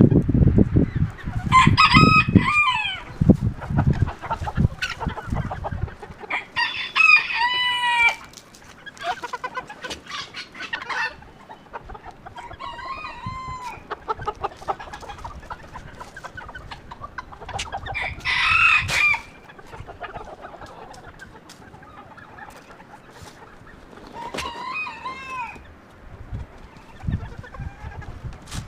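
Roosters crowing several times across the farm yard, with hens clucking between the crows. Wind rumbles heavily on the microphone in the first few seconds.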